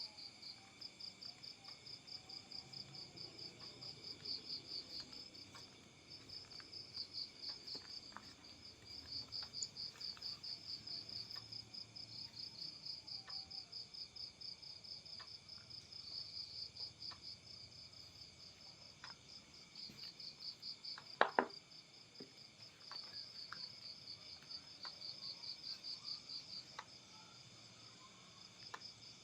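Insects chirping in a continuous high-pitched pulsing trill, with a single sharp click about two-thirds of the way through.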